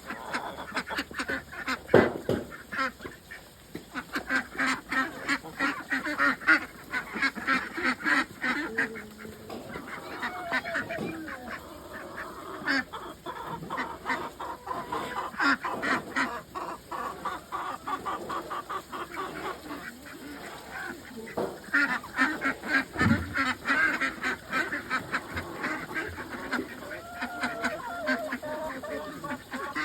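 A flock of domestic waterfowl calling almost without pause, many rapid calls overlapping.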